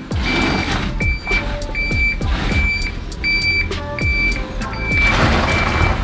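A large box van's reversing beeper, sounding about eight even high beeps, one every three-quarters of a second, over the van's engine as it backs up.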